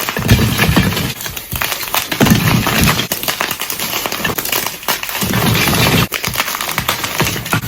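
Blocks of gym chalk being crushed, giving a dense run of crunching and crackling with repeated heavier crunches.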